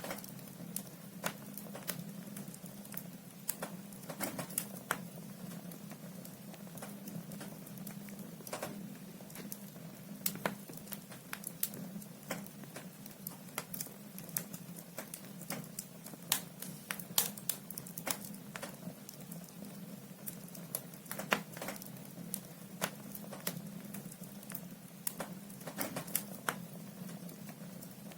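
Firewood burning in a fireplace, crackling with irregular sharp snaps and pops over a steady low hum.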